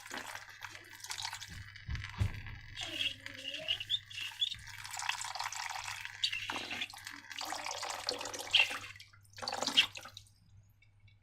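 Liquid slime ingredients being poured and worked by hand, with irregular dripping, splashing and gurgling sounds that stop about ten seconds in.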